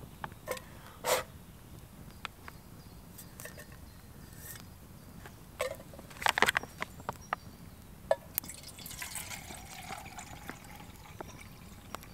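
Camp breakfast sounds while tea is made: scattered clicks and knocks of cookware, a quick cluster of sharp clinks about six seconds in, and water being poured.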